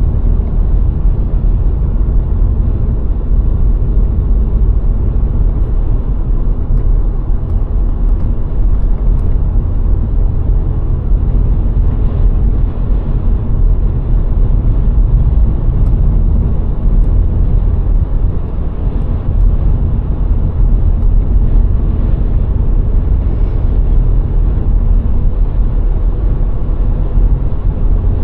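Road noise of a VW Golf IV with its 1.6-litre four-cylinder engine driving at a steady speed: a constant low rumble of tyres and engine with a faint steady hum over it.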